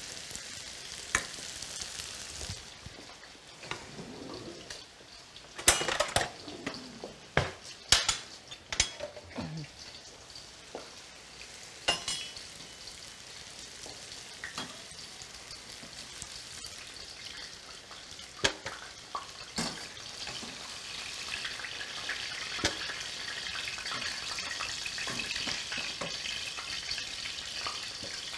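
Zucchini slices and vegetables frying in oil in pans on a gas stove, with a steady sizzle. A run of sharp metal clinks from a ladle and utensils against the steel pots comes in the first half, and the sizzle grows louder in the last third.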